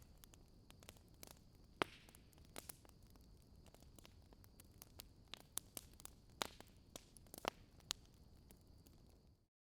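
Faint campfire crackling: irregular sharp pops and snaps from burning wood over a low hiss. The sound cuts out suddenly near the end.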